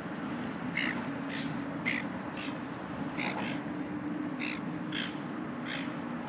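A bird calling repeatedly, about nine short calls spread over a few seconds, over a steady low hum.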